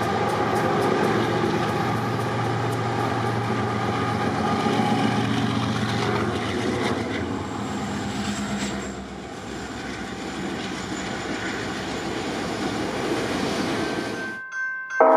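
Diesel freight locomotives running past under power with a steady engine drone and the clicking of wheels over the rails, as two trains pass each other; the sound drops away near the end. A multi-chime train horn sounds right at the end.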